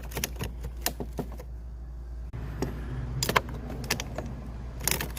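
Keys jangling and a string of separate short clicks as the ignition key and switches of a 2004 Honda Reflex scooter are worked to power it up.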